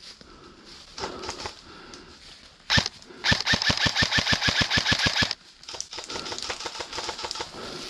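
Airsoft electric replica rifle (AK-pattern AEG) firing: a single shot, then about half a second later a full-auto burst of close to twenty shots at roughly ten a second, lasting about two seconds.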